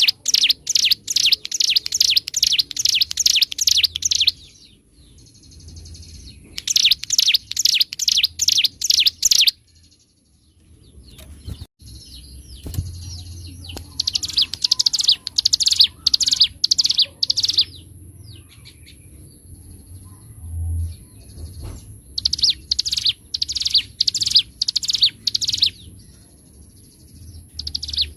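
Ciblek gunung (hill prinia) singing repeated loud phrases of rapid, sharp high notes, about three notes a second, each phrase lasting a few seconds with short pauses between. This is the bird's full, energetic song.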